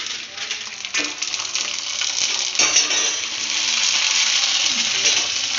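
Semolina papad frying in very hot oil: a crackling sizzle that starts up about a second in and builds to a steady hiss, with a sharp click at the start and another near the middle.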